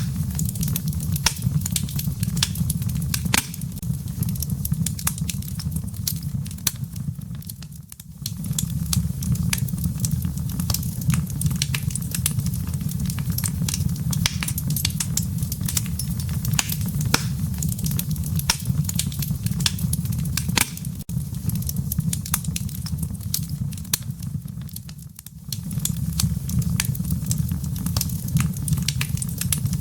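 Wood logs burning in a fireplace, with frequent sharp crackles and pops over a steady low rumble. The sound dips briefly twice, about 8 and 25 seconds in.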